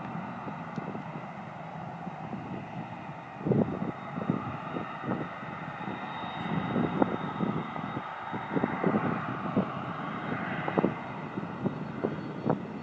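Jet aircraft engines running steadily with a faint high whine, broken by irregular low thumps of wind buffeting the microphone.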